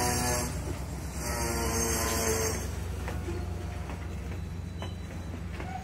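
Freight train of open-top hopper cars rolling slowly past: a steady low rumble of wheels on rail, with short metallic squeals and creaks in the first two or three seconds, then a few light clicks as wheels pass over the track.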